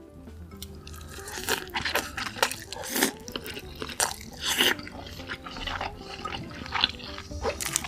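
Close-miked eating sounds: a person chewing food, with wet smacking and crunchy crackles coming irregularly, several to a second.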